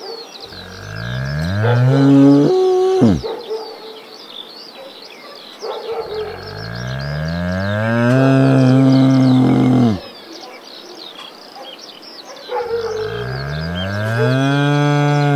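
Bull mooing: three long, loud moos, each rising in pitch, the middle one the longest at about four seconds.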